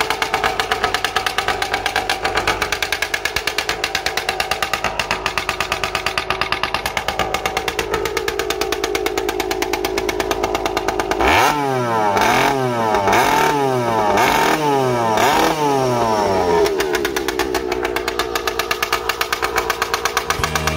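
Tomos CTX 90's small two-stroke single-cylinder engine running on its first start. It idles steadily, is revved up and down several times in quick blips about halfway through, then settles back to idle.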